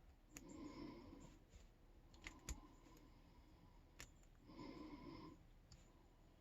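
Faint clicks of a lock pick and tension wrench working the pins of a Yale K300 padlock, with two short scraping sounds about half a second in and near the middle.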